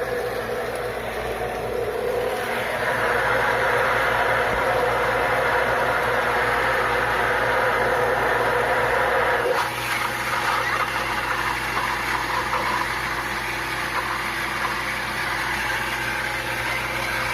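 Bolzano 1hp shallow well water pump running with a steady hum, together with a rushing noise that is stronger at first and drops off suddenly about ten seconds in.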